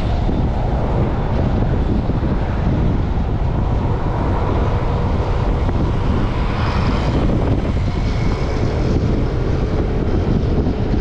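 Strong wind buffeting a chest-mounted camera's microphone during a bicycle ride, a steady low rumble, with city traffic noise beneath it and a swell of louder noise about seven seconds in.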